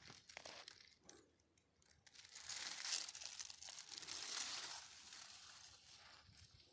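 Dry rustling and crinkling that comes in a few soft swells, with a near-quiet gap about a second in.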